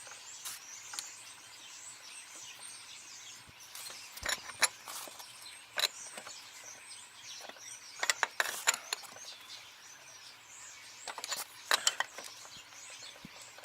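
Sharp metallic clicks and clinks of a 19 mm wrench tightening the wheel nuts on a child's quad bike. They come in scattered groups, a quick run about eight seconds in and another near the end, over steady outdoor background.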